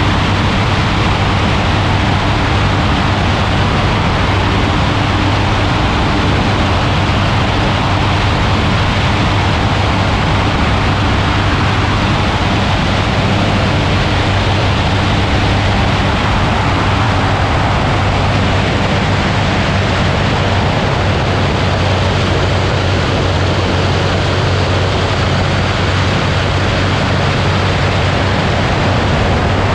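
Ultralight aircraft in flight: its engine drones steadily at an unchanging speed under a loud rush of wind noise.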